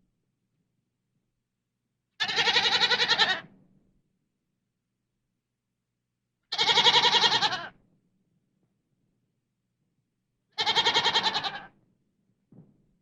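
Three separate bleats from a goat or sheep, each a little over a second long with a quavering tremble, about four seconds apart.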